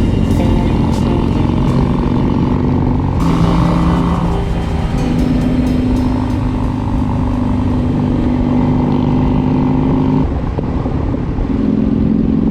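Motorcycle engine running on the road. Its note steps down about three seconds in, climbs back a couple of seconds later, and dips again briefly near the end.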